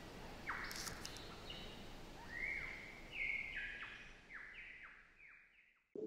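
Faint bird calling: a run of short calls, each sweeping down in pitch, about three a second, over a light outdoor hiss, fading out about five seconds in.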